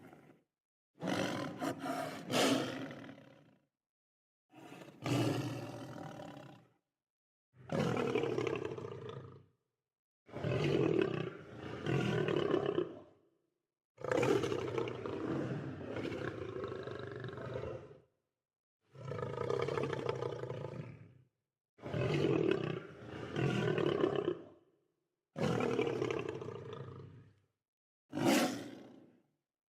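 Lion roaring in about ten separate calls of two to four seconds each. Each call cuts off abruptly to dead silence before the next begins.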